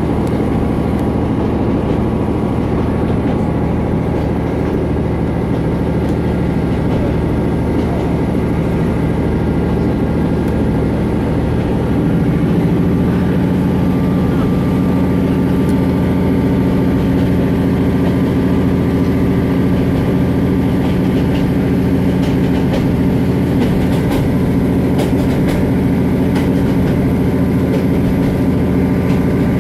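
Diesel passenger train heard from inside the carriage: a steady engine drone with the rumble of wheels on the rails. About twelve seconds in, the engine note steps up and grows slightly louder, and a few light clicks come near the end.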